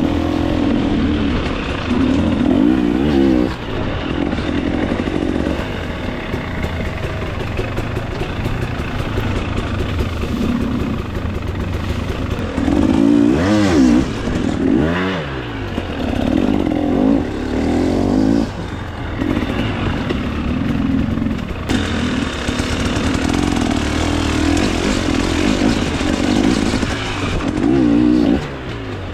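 2024 KTM 300 XC-W's two-stroke single-cylinder engine being ridden hard on trail, revving up and down again and again as the throttle is worked, its pitch rising and falling every second or two.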